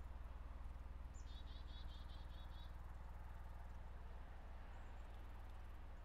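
A bird calling: a short run of about seven quick high notes about a second in, and a faint chirp later, over a steady low hum and outdoor background hiss.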